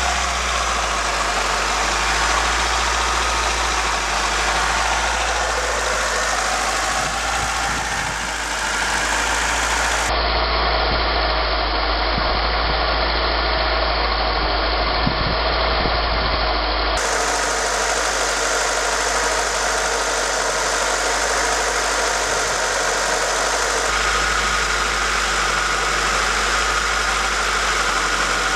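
Mitsubishi Lancer petrol engine running steadily at a held mid speed, around 3,500 rpm, with no oil and its sump removed, so it runs dry with no lubrication. The tone changes abruptly a few times.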